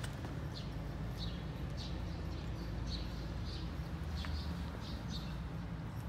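Bird chirping, a quick series of short high chirps a few times a second, over a steady low rumble.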